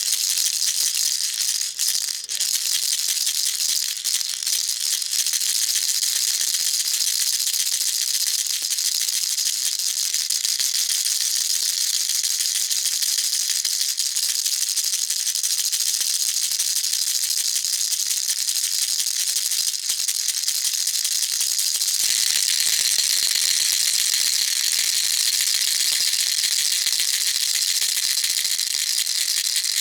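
Baby rattle shaken continuously in a fast, even rattle. About three-quarters of the way through, the shaking changes slightly and becomes a touch louder and fuller.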